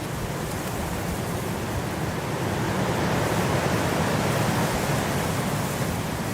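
Blizzard wind blowing in a steady rush, swelling in a gust through the middle and easing off toward the end.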